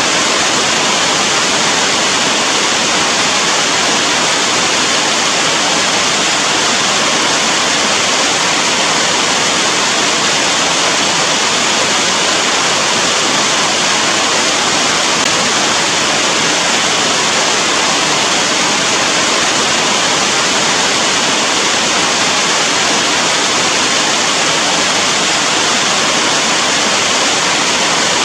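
Steady heavy rain, an even unbroken hiss of falling water.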